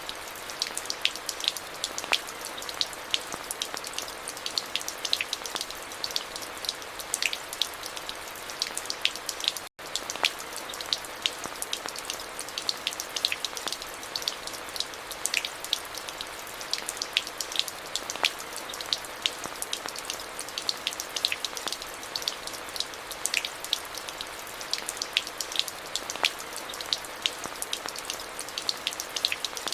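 Steady rain with many close, distinct drops striking hard surfaces, each a sharp tick over a constant hiss. The sound cuts out for an instant a little under ten seconds in.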